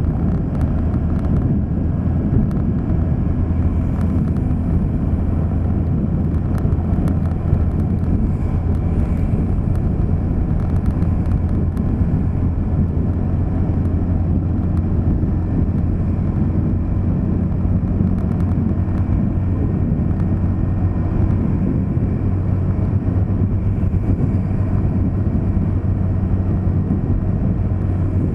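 A vehicle under way at a steady pace: a constant low rumble of engine and road noise that neither rises nor falls.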